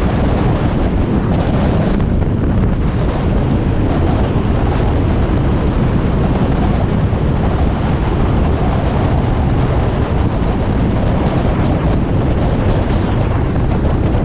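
Steady wind rush on the microphone over the running engine of a Harley-Davidson Iron 1200, an air-cooled V-twin, while riding at a constant speed.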